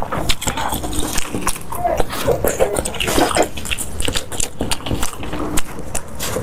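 Someone eating: wet chewing and mouth sounds, with many small sharp clicks scattered throughout.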